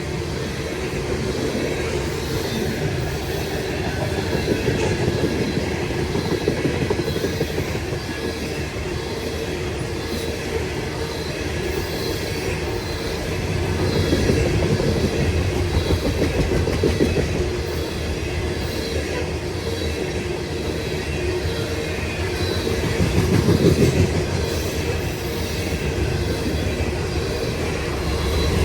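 Coal train cars rolling past, steel wheels clacking over the rail joints in a steady run, the sound swelling and easing every few seconds.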